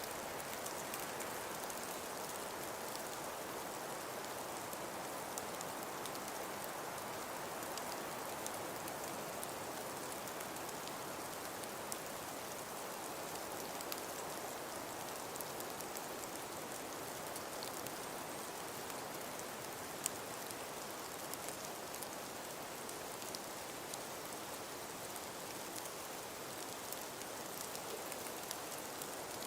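Steady wind-and-snowfall ambience: an even hiss with a dense, fine patter of tiny ticks throughout, and one sharper tick about twenty seconds in.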